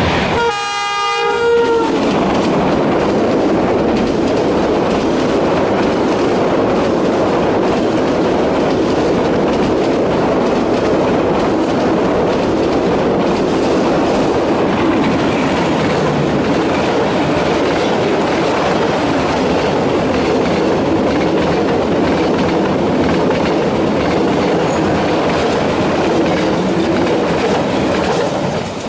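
Diesel locomotive horn blast of about a second and a half at the start, then a train passing close at speed: a steady rumble and rattle of wagons, with wheels clicking over the rail joints.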